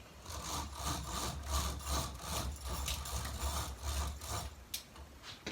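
Window blinds being raised: a run of rhythmic rattling, rubbing strokes over a low hum that stops about a second before the end.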